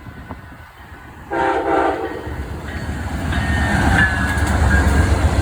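Amtrak passenger train's locomotive horn sounding one short blast about a second in, then the train's low rumble growing louder as it nears and passes.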